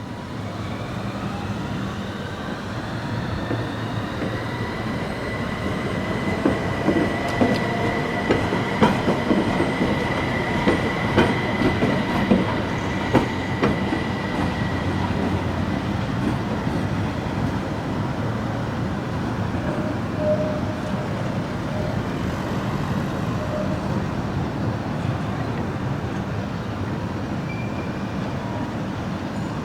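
Fukui Railway electric tram running on its rails: a motor whine rising in pitch over the first few seconds and holding steady, a run of sharp clicks from the rail joints between about 6 and 13 seconds in, and a steady rumble of wheels on rail throughout.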